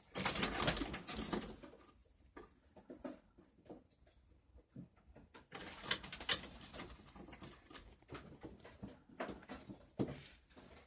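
Young domestic pigeons cooing in their loft, with scattered sharp clicks and scuffles and a louder noisy burst in the first two seconds.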